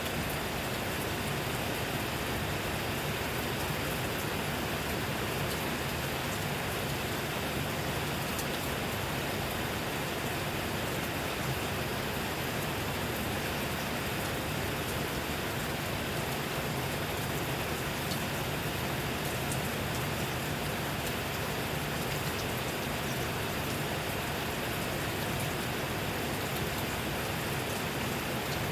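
Steady rain falling, an even hiss with scattered faint drop ticks and no change in intensity.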